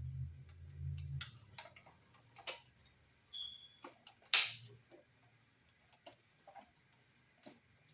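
Irregular small clicks and taps of hand tools, screws and wires being handled at a wall receptacle as it is unwired, with one sharper knock about four and a half seconds in and a brief low hum in the first second.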